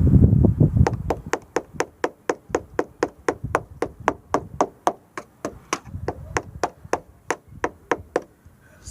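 A screwdriver tapping repeatedly on the steel body of a 1965 Datsun Fairlady 1500, about four sharp taps a second, to probe a suspected rust spot. The metal sounds solid. There is some low thumping at the start.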